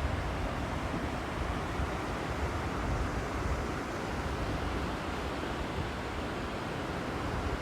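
Steady rushing of a river's flowing water, with wind rumbling on the microphone.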